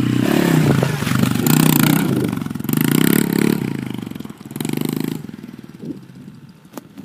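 110cc dirt bike engine revving in three short bursts, then dropping back to a low, uneven run near the end.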